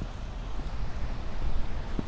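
Wind rumbling on a phone's microphone, with a faint hiss, growing a little louder toward the end.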